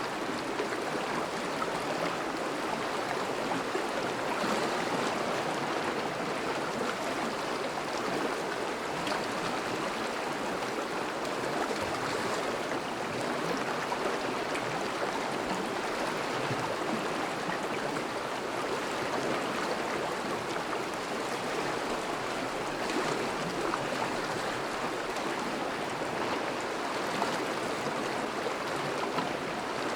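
Thawing river flowing steadily, a constant rush of running water.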